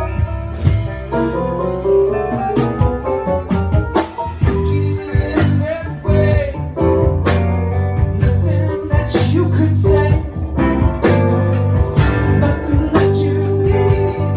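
Live band playing a song: guitar and a singing voice over a steady bass line.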